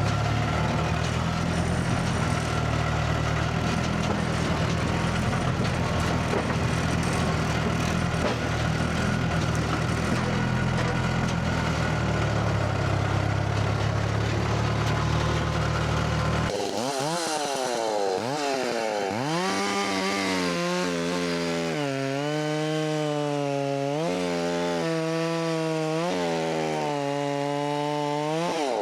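A heavy engine runs steadily with a deep drone. About two-thirds of the way through, it gives way abruptly to a Holzfforma 660 clone two-stroke chainsaw revving high as it cuts wood, its pitch dipping and recovering several times under load.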